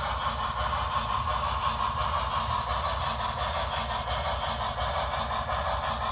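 HO scale model steam locomotive running on track, its onboard sound decoder playing a steady mix of steam and running sounds over a low rumble.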